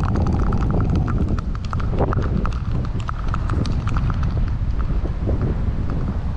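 Wind buffeting the microphone, with a quick irregular run of sharp clicks over it for the first few seconds.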